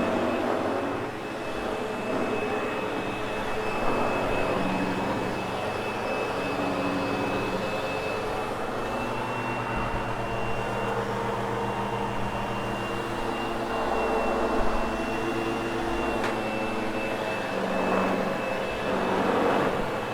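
Sebo X8 upright vacuum cleaner running over carpet: a steady motor drone with a constant high whine, its loudness rising and falling a little as it is worked over the pile.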